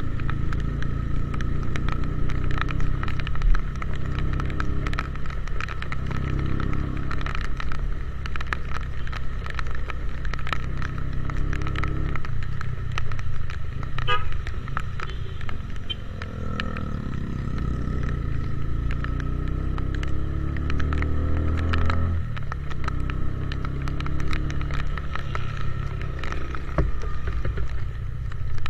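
Motorcycle engine running under way, its pitch climbing over several seconds as it accelerates, then dropping suddenly in the second half. Rain spatters and ticks on the microphone throughout.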